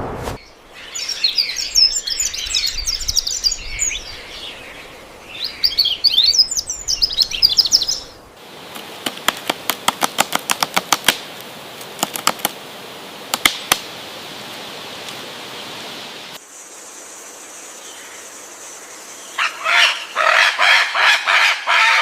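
Birds calling in several separate stretches. First comes fast, high chirping and twittering, then a run of sharp, irregular clicks, and near the end a lower, rhythmic string of repeated notes.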